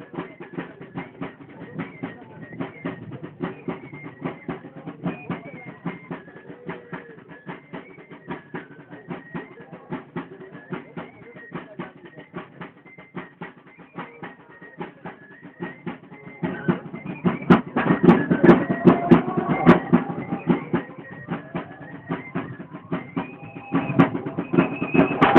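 Festive street music: a drum beating a fast, steady rhythm under a high, wavering wind-instrument melody. The music gets louder and fuller about two-thirds of the way through.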